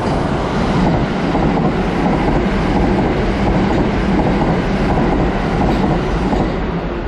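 Kintetsu 22000 series ACE limited-express electric train passing close by along the platform, with a steady loud rush of wheel and running noise that eases near the end.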